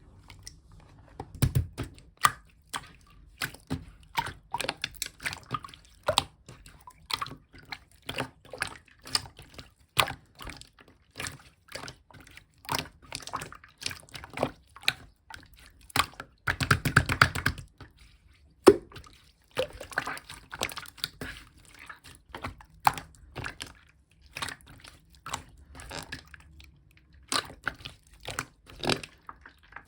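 Clear slime being squished and pressed by hand, making irregular wet clicks and pops, with a dense run of crackling about halfway through and a single sharp pop just after it.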